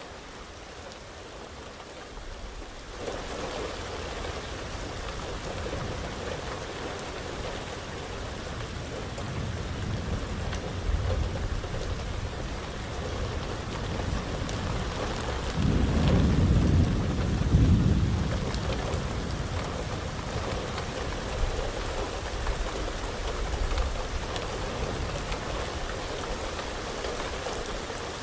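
Heavy rain falling steadily, turning heavier about three seconds in. A long, low rumble of thunder builds through the middle, is loudest a little past halfway, then rolls away under the rain.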